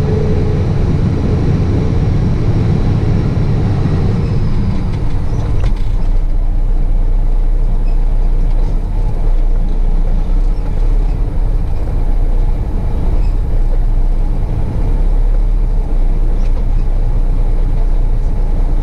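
Heavy truck's engine running steadily. About five seconds in, a click is heard and the fuller mid-range sound falls away, leaving a lower, even rumble.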